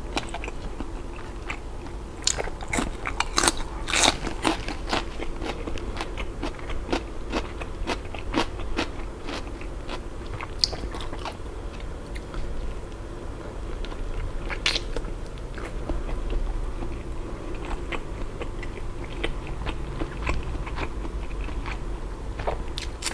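Close-miked mouth sounds of someone biting and chewing a grilled ham skewer coated in mala sauce. Many sharp wet clicks from the mouth, busiest in the first few seconds.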